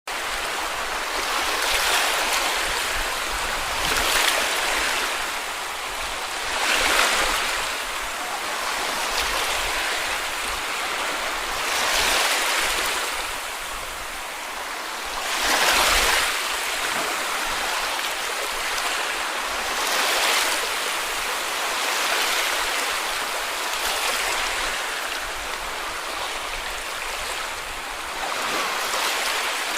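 Small sea waves washing onto a beach, a hiss that swells and fades every few seconds as each wave breaks and runs up the shore.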